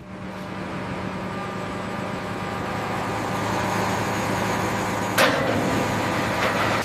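Crane hoist motor running steadily as it lowers an aircraft engine, a low mechanical hum with a rushing noise that grows slowly louder. A sharp metallic knock about five seconds in.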